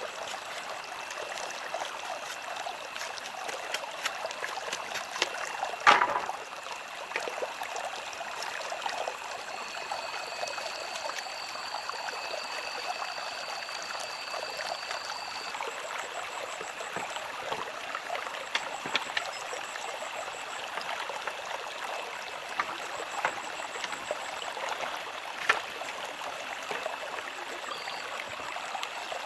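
Running water trickling steadily, with a sharp knock about six seconds in and a few fainter clicks later.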